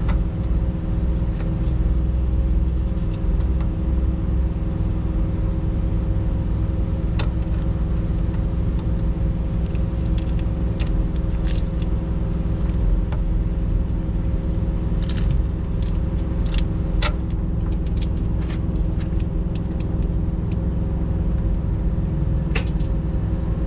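A diesel engine running steadily at a constant speed, with scattered light metallic clicks and clinks of hand work on the truck's air fittings.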